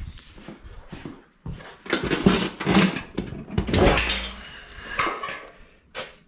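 Metal hand tools and fittings clinking and clanking in irregular knocks, typical of wrench work on a tractor's hydraulic coupler and lines.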